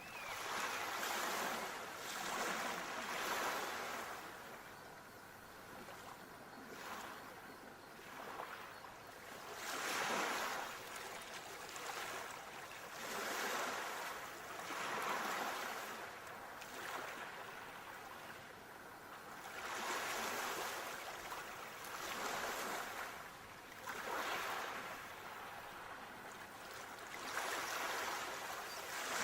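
Sea waves breaking, a surge of surf every few seconds that swells up and dies away again.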